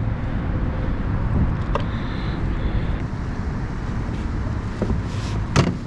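Wind buffeting the microphone as a steady low rumble, with a few light clicks and one sharper knock near the end.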